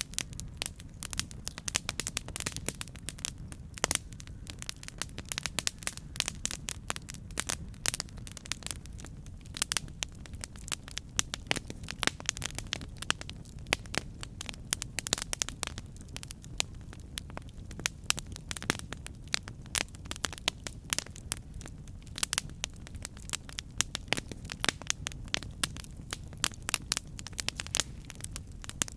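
Campfire burning with constant irregular crackling and sharp pops over a low, steady rumble of flames.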